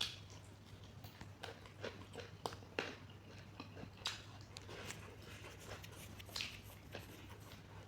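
Close-miked chewing and eating sounds of a person working through a mouthful of chicken curry: irregular short smacks and clicks several times a second. A steady low hum runs underneath.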